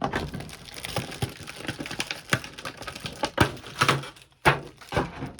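Toy packaging being rummaged through: plastic tray and wrapping crinkling and clicking, with several sharper knocks and snaps in the second half.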